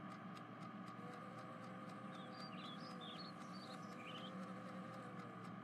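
Faint steady background hum with a few quick, high bird chirps in the middle.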